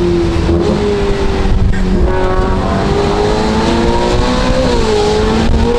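Ferrari F8 Tributo's twin-turbo V8 through a full catless exhaust, accelerating. Its pitch climbs from about two seconds in, dips briefly near the end and climbs again, over a heavy low road rumble.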